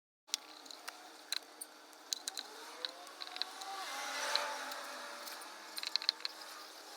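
Scattered sharp clicks and light clinks at an irregular pace over a faint steady background hum, with a swell of noise about four seconds in.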